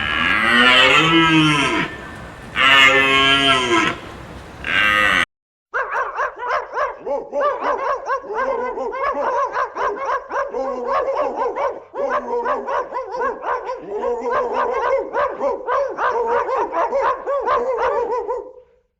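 Animal calls: two long, loud, moo-like bellows and a short third one, then after a brief break a long run of rapid, wavering calls that stops shortly before the end.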